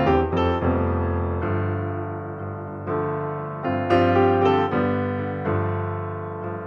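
Background piano music, notes and chords struck and left to ring.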